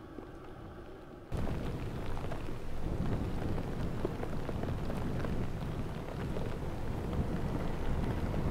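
A faint steady hum, then an abrupt jump about a second in to loud, rumbling wind noise with a dense crackle, as of a snowstorm gusting against the microphone.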